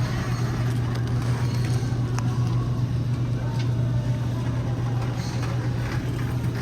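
A steady low hum under a constant wash of background noise.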